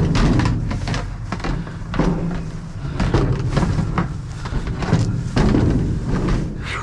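A series of irregular knocks and thumps, several of them sharp, over a steady low rumble.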